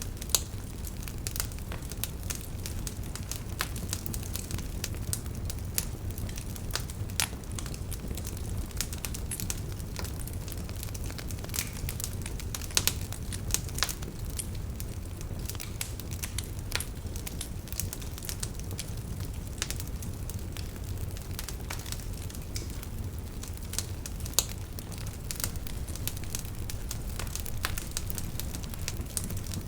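Wood fire burning in a fireplace: a steady low rumble with irregular crackles and occasional louder snaps.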